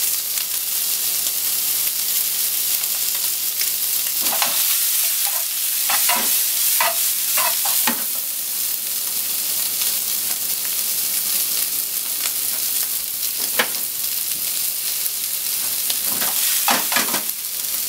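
Cubes of pork belly frying and sizzling in a frying pan, a steady hiss. They are stirred, with a few short louder sounds from about four to eight seconds in, once around thirteen seconds, and again near the end.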